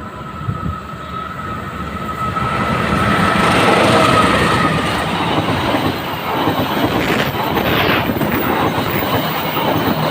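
A train passing close by, loudest about four seconds in, with a high steady tone that dies away in the first few seconds. The wheels then clatter in repeated strokes over the rail joints.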